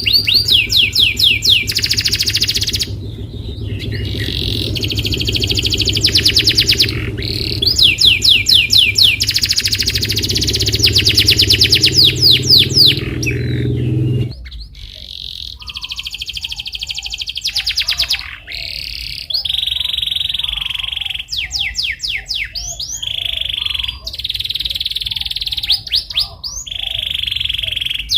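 Domestic canary singing: fast runs of repeated chirps and rolling trills, the song used as a lure to get other canaries singing. A low background rumble under it cuts off about halfway through.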